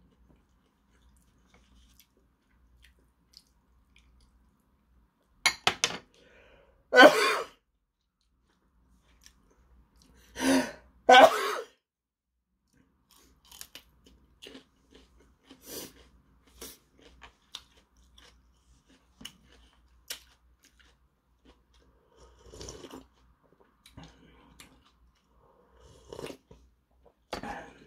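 Close-up mouth sounds of eating: chewing and crunching, including biting into a raw green chili pepper, as many small clicks from about halfway on. Earlier come a few loud coughs in two pairs, about 6 and 11 seconds in, the loudest sounds here, and near the end a sip of broth from the ramyeon cup.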